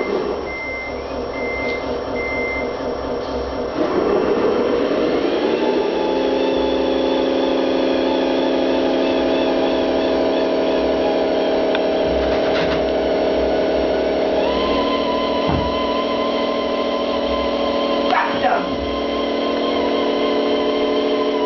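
Radio-controlled Scania 8x8 model truck: three short high beeps, then a rising whine about four seconds in that settles into a steady hum of several tones, stepping up in pitch about two-thirds of the way through.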